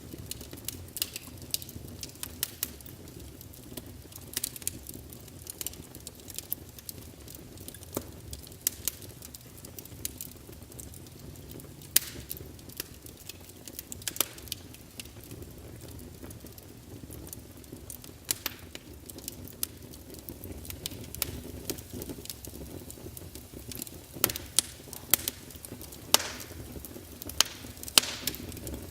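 Wood fire burning in a fireplace: a steady low rumble of the flames with irregular crackles and pops of the logs, a few louder snaps late on.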